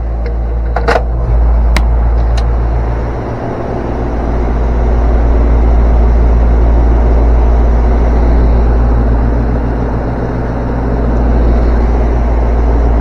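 Air-conditioning condensing unit running, a steady loud mechanical hum, with a few sharp clicks in the first couple of seconds.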